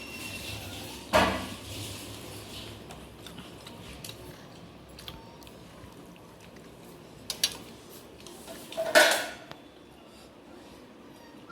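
Dishes and utensils clinking: a clatter about a second in, a quick double clink past seven seconds, and the loudest, longer clatter about nine seconds in.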